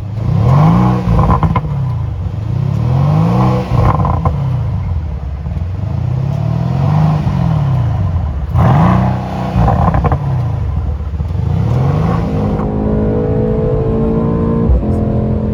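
Mercedes-AMG C63 S twin-turbo V8 under hard acceleration, its revs climbing and dropping again and again through the gears. After about twelve seconds it settles into a steady drone whose pitch rises slowly as the car keeps gathering speed.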